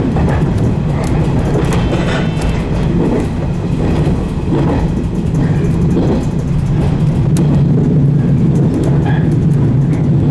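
A 115 series electric train running along the line, heard from on board: a steady rumble of wheels on rail, with faint scattered clicks.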